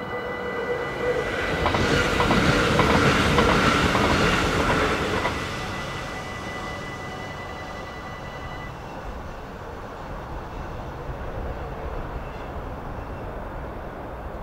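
Level-crossing bells ringing steadily while a train passes, a loud swell of rail and wheel noise with rapid clicks, loudest from about two to five seconds in. The bells stop about nine seconds in, shortly before the barriers lift.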